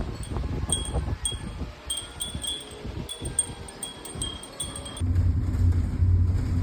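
Metal wind chimes tinkling irregularly in gusty wind, with clear high ringing strikes over a low wind rumble. About five seconds in, the sound changes abruptly to a steady low rumbling drone.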